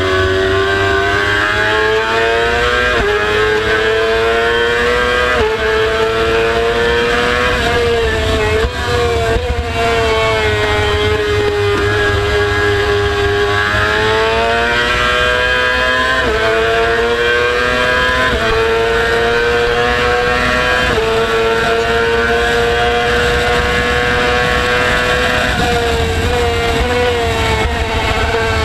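Motorcycle engine running hard at a track session, its pitch climbing and then dropping suddenly every few seconds as the rider shifts gears.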